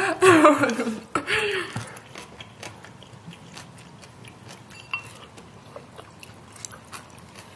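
A wordless, gliding voice sound in the first two seconds. Then soft eating sounds: chewing udon noodles, with small scattered clicks of chopsticks.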